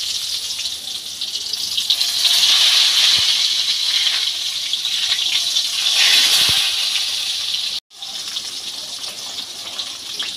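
Brinjal pieces frying in hot mustard oil: a loud, steady sizzle that swells as each new piece goes into the oil. It cuts off for an instant near eight seconds and resumes a little quieter.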